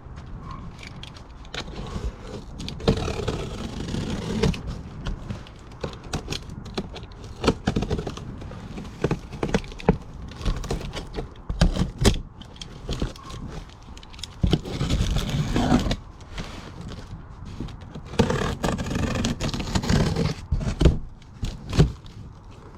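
Rummaging through discarded items: a quick, irregular run of scrapes, knocks, rattles and crinkling as objects are picked up, moved and set down.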